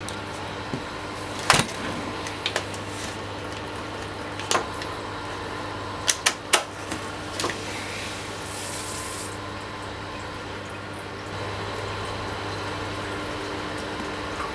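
Vertex Vectra aquarium pump running with a steady low hum and water noise. A few sharp clicks cut through it, and there is a brief hiss about eight seconds in.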